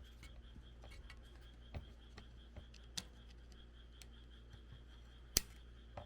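A few sharp clicks and light knocks of small parts and tools being handled, the loudest about five seconds in. Under them runs a faint, steady, high pulsing chirr.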